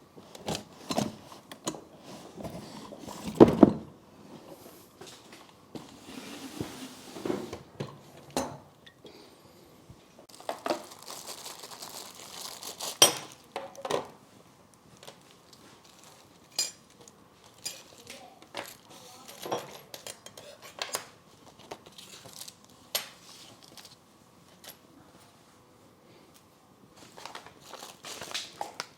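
Small metal parts handled by hand: irregular clinks and knocks, with rustling of packaging at times, while the coupler and attachment pins of an RC hydraulic excavator are being fitted.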